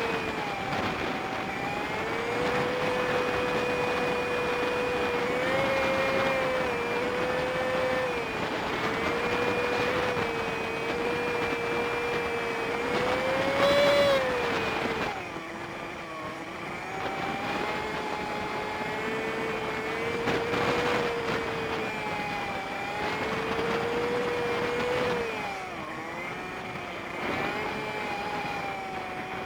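Honda Super Cub 50's small single-cylinder engine running under way, its steady note rising and falling with the throttle, with sharp drops in pitch about halfway through and again near the end before it picks back up.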